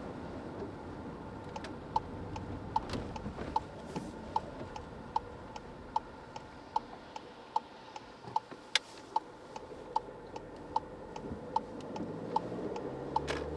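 Car turn-signal indicator ticking steadily in the cabin, a regular tick-tock about every 0.4 s, over quiet road and engine noise. The road noise drops in the middle and rises again near the end as the car speeds back up.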